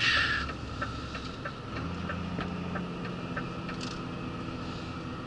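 DAF truck's diesel engine running, heard inside the cab, with an even ticking of about three a second, typical of the indicator, and a short hiss at the start.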